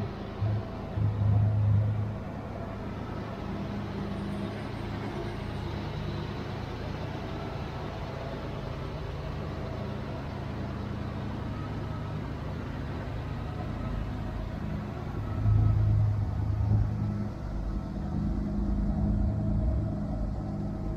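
A car engine idling steadily, with louder swells briefly about a second in and again around fifteen seconds in.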